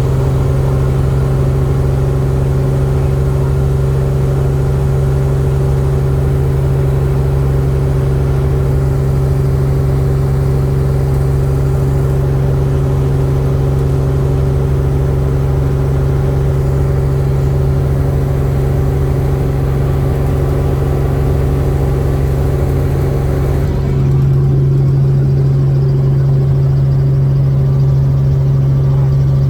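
Helicopter in flight: a steady, loud drone with a strong low hum. About 24 seconds in, the high hiss drops away and the low hum gets slightly louder.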